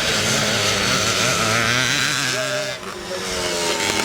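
Classic motocross bikes, mostly two-strokes, racing with their engines revving, the pitch rising and falling as the throttles open and close. Loudness dips briefly about three seconds in, then a rising engine note comes in near the end.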